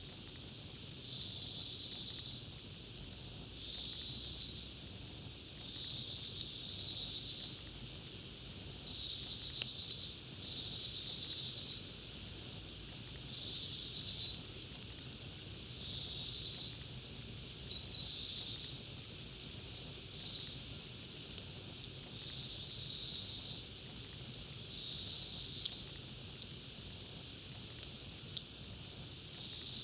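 Campfire crackling, with scattered sharp pops, under a high buzzing insect call that comes in bursts of about a second, repeating roughly every two seconds.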